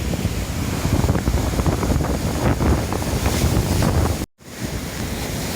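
Large sea waves breaking and surging on a beach, with strong wind buffeting the microphone. The sound drops out for an instant about four seconds in.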